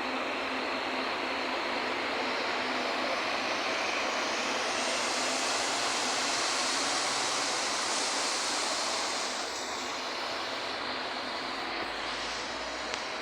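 Scania K400IB coach driving past: a steady rush of engine and tyre noise with a high hiss, loudest midway and dying away over the last few seconds.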